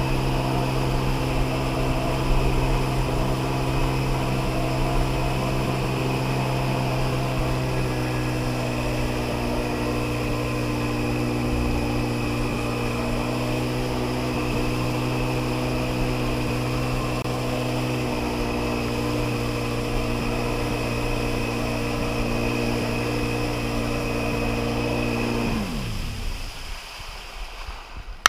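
Sea-Doo XP jet ski's two-stroke engine running at a steady, unchanging pitch, then winding down and cutting off a couple of seconds before the end as it is shut off.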